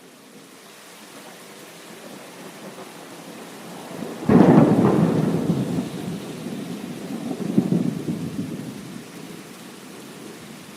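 Heavy rain falling steadily, with a thunderclap about four seconds in: a sudden loud crack that rolls into a rumble, swells once more a few seconds later, then fades back under the rain.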